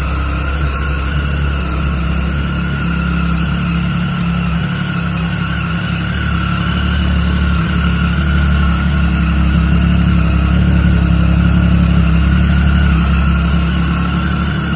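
Triumph Sprint ST 1050's three-cylinder engine idling steadily, getting a little louder in the second half.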